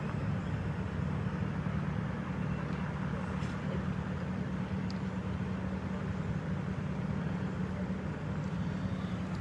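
A vehicle engine running steadily, a low even hum, over a steady background of road noise.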